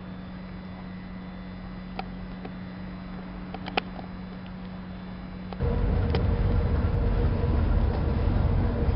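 Steady low hum of a diesel passenger train standing at a station platform, with a couple of faint clicks. About halfway through it cuts abruptly to the loud, low diesel rumble and track noise of a moving rail vehicle.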